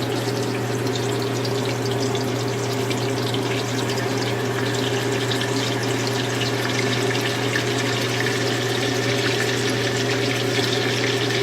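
Ghee heating in a cooking pan, with a faint fine crackle over a steady kitchen hum and hiss.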